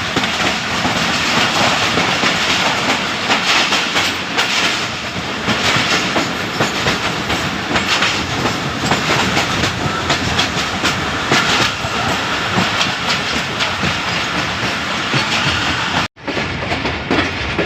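Jaffar Express passenger train running at speed, its wheels clacking over the rail joints under a steady rush of running noise. The sound drops out for an instant near the end.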